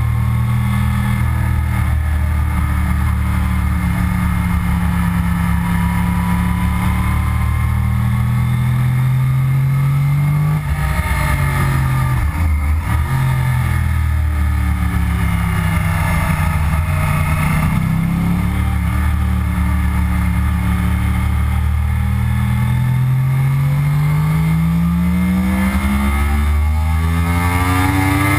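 2009 Yamaha YZF-R1's crossplane inline-four engine heard from onboard at track speed. The revs rise and fall several times, with a sharp drop about halfway through and a long steady climb near the end.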